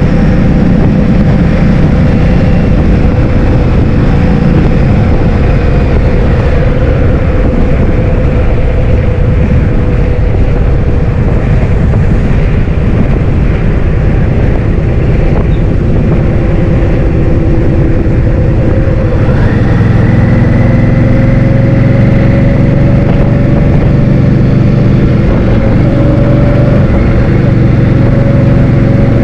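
Wind rushing over the microphone while riding a motor scooter, with the engine running underneath. The engine pitch drifts and changes about two-thirds of the way through.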